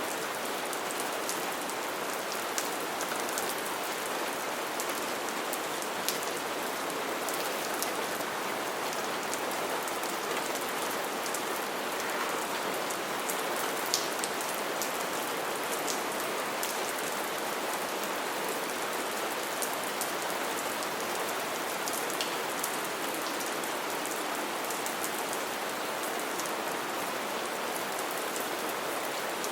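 Steady rainfall: an even hiss of rain, with the ticks of individual drops striking something scattered through it.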